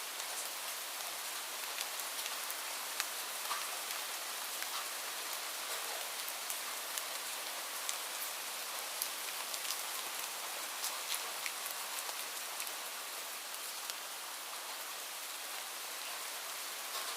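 Steady rainfall, a continuous hiss with many distinct drops tapping close by.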